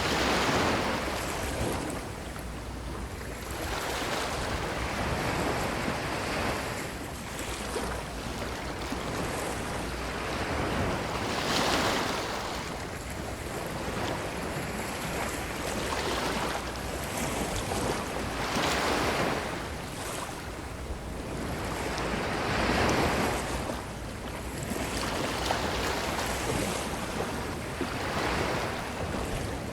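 Ocean surf breaking and washing up a beach: a steady rushing hiss that swells with each wave every three to five seconds.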